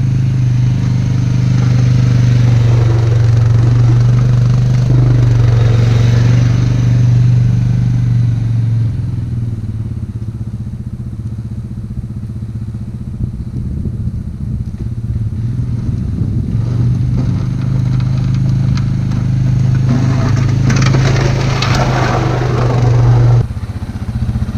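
ATV engine running steadily while plowing snow, easing off for a while in the middle and pulling harder again. Near the end comes a noisy scraping clatter, then the engine drops back suddenly.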